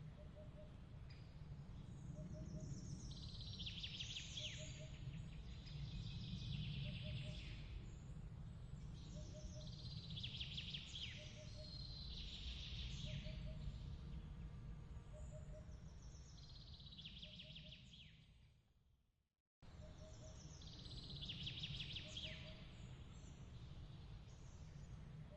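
Layered nature ambience: birds chirping in bursts over a steady low rumble, with a soft short double chirp repeating about once a second. About three quarters of the way through, the track fades out to silence and then starts again abruptly, a loop point.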